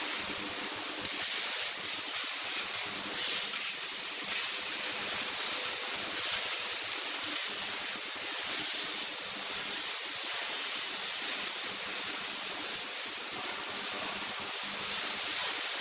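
Steel wire-rod heating furnace and coiling line running: a steady rushing hiss that swells and eases every second or two, over a thin, constant high-pitched whine.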